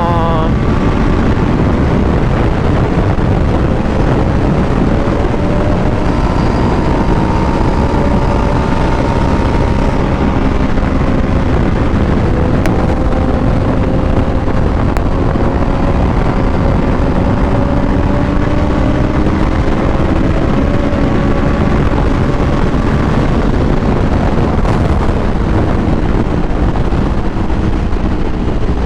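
Superbike engine pulling steadily at highway speed, heard from the rider's own microphone under heavy wind rush. The engine note climbs slowly in pitch and eases back near the end.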